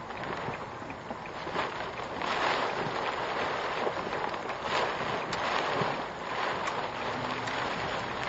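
Typhoon wind and rain buffeting a car, heard from the dashcam inside the cabin: a gusting, rushing hiss that swells louder about two seconds in, with faint scattered ticks.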